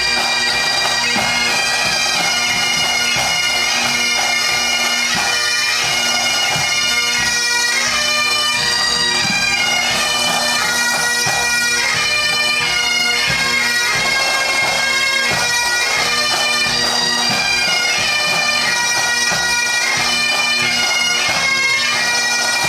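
Massed pipe band playing: many Highland bagpipes carry a tune over their steady drone, with the band's drums beating throughout.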